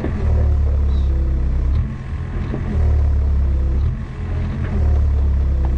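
Mini excavator's diesel engine running, a loud low rumble that eases off briefly about two seconds in and again about four seconds in.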